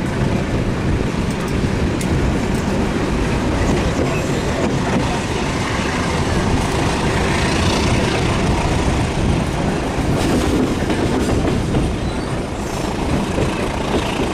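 Train running on the tracks, a steady loud rumble with wheels clicking over the rail joints.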